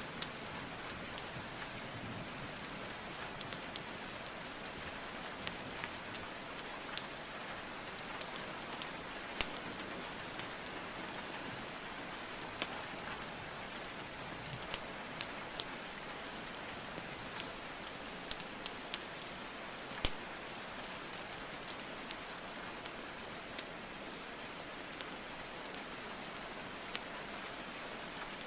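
Steady rainfall mixed with a wood fire burning in a fireplace, its logs giving off irregular sharp pops and crackles.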